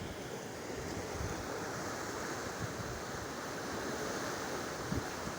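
Steady rushing of floodwater, with wind buffeting the microphone in uneven low thumps.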